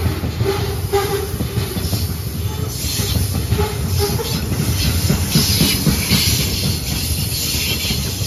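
Loaded grain hopper cars of a freight train rolling past close by: a steady rumble and clatter of steel wheels on the rails, with short squealing tones from the wheels in the first half.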